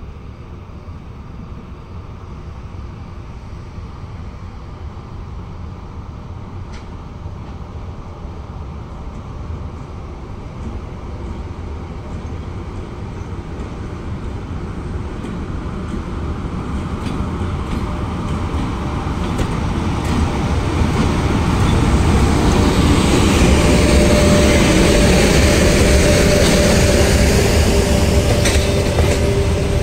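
EP1 electric locomotive hauling a passenger train arriving at a station. A low rumble grows steadily louder as the locomotive and then the coaches pass close by, with a steady whine joining in over the last few seconds.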